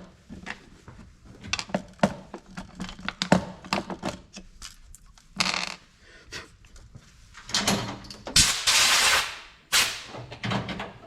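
Plastic chainsaw cover and parts being handled and fitted onto the saw: a scattered series of clicks and knocks, with a louder rasping hiss lasting about a second starting around eight and a half seconds in.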